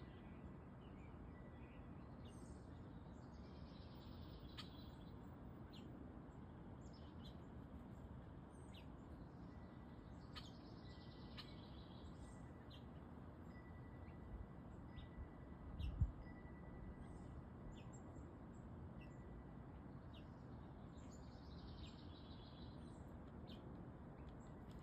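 Wild birds chirping faintly in short high notes, with a longer hazy call repeated three times several seconds apart. A brief low thump sounds about two-thirds of the way through.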